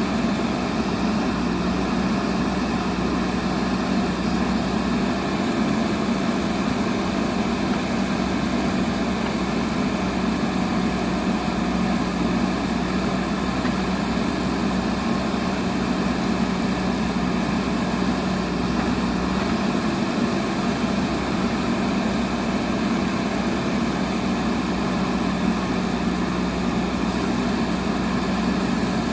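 JCB backhoe loader's diesel engine running at a steady pitch, unchanging throughout.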